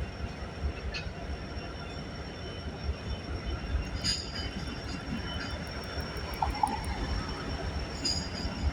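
Freight train rumbling past at slow speed, a steady low rumble.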